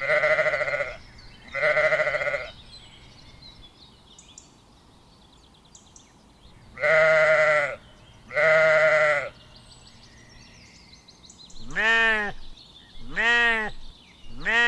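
Farm animals bleating: two pairs of long, wavering calls, then three shorter calls that rise and fall in pitch near the end. Faint bird chirps lie between the calls.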